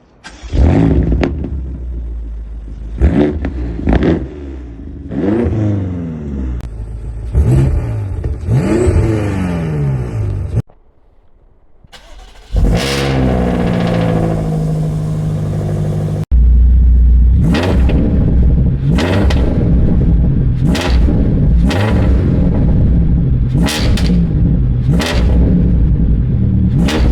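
BMW M5 F90's twin-turbo V8 revving through a custom-made Matalex exhaust, with repeated throttle blips, the pitch rising and falling with each one. The sound cuts between takes: there is a quiet gap about 11 seconds in, then a rev-up, and from about 16 seconds on it turns louder with quick blips about once a second.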